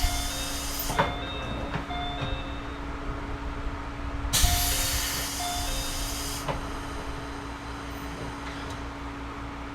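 Series 211-5000 electric train standing still with a steady hum from its onboard equipment, broken by two spells of compressed-air hiss. One spell ends about a second in with a click. The second starts with a sharp click after about four and a half seconds and fades two seconds later.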